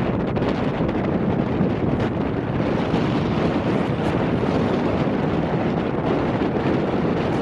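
Strong wind in a snowstorm blowing across the camera's microphone: a steady, loud rushing noise.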